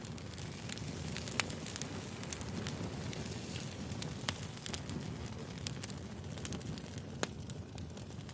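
Firewood burning: a steady low rumble with sharp crackles and pops scattered through it, the loudest about a second and a half, four seconds and seven seconds in.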